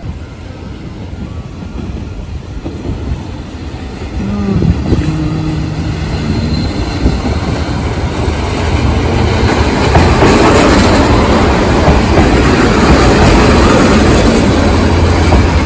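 Red diesel railcar approaching and pulling into the platform. Its engine and wheel noise grow steadily louder, loudest over the last several seconds as the cars run past close by.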